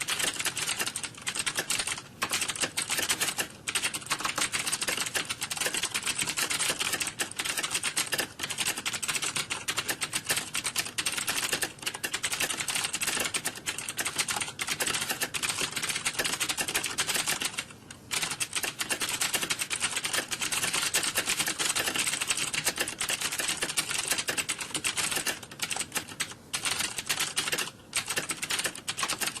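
Computer keyboard typing: a dense, continuous clatter of key clicks with almost no pauses, with one brief lull about 18 seconds in.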